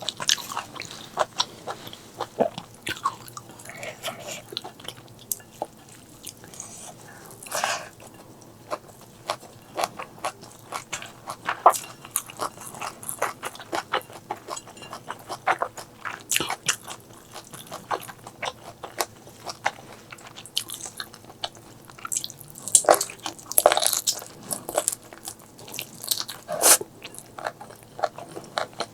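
A person chewing and biting food close to the microphone, with irregular wet mouth clicks and crunches; the food is spicy duck intestine curry and stir-fried morning glory. It gets louder for a few seconds near the end.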